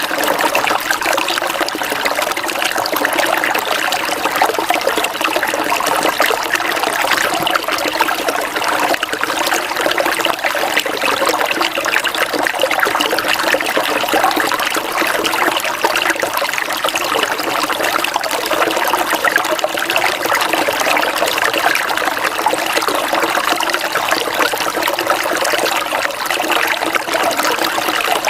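Steady rain with trickling water: an even, continuous wash of water sound with no breaks or single loud drops.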